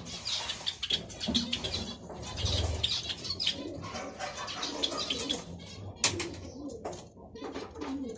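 Zebra finches fluttering their wings in irregular bursts, with short high calls among the flapping.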